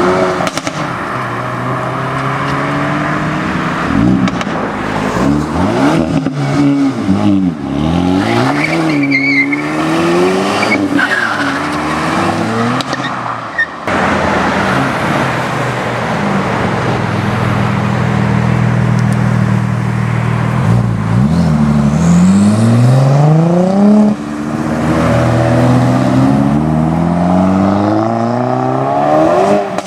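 Hyundai i30N turbocharged 2.0-litre four-cylinder engines revving and accelerating away, several cars in turn. The engine note climbs in pitch and drops back again and again as the cars change gear, holds steady for several seconds in the middle, then climbs again near the end.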